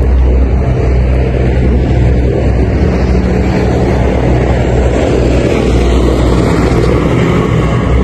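Steady low engine drone with road rumble, as from a car driving.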